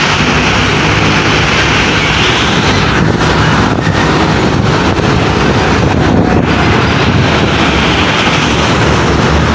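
Loud, steady road noise of heavy trucks driving past, with wind buffeting the microphone.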